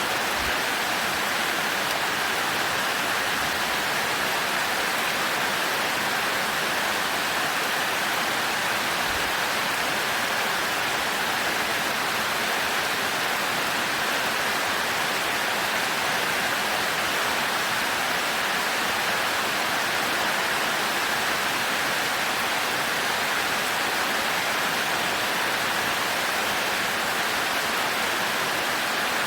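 Heavy rain pouring down, a steady, even hiss with no thunder.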